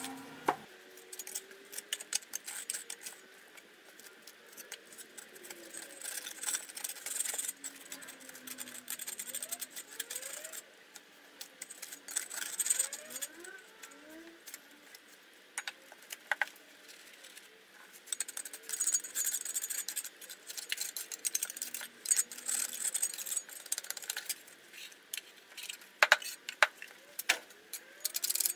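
Irregular clinks, taps and light scraping of hard objects being handled, with louder clusters of clatter at several points.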